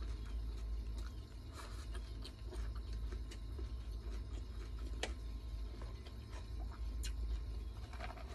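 Close-miked chewing and eating sounds with a few sharp clicks, the loudest about five seconds in, over a steady low hum.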